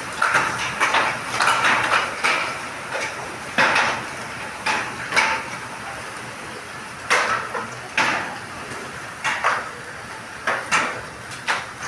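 Hailstones striking a hard surface, irregular sharp knocks and clatters, some in quick clusters, over a steady hiss of falling hail.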